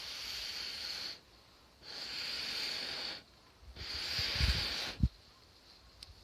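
Breath blown through a fire-blowing pipe into a campfire in three long hissing puffs, each about a second long with short pauses between. The last puff has a low rumble in it and is followed by a single sharp knock.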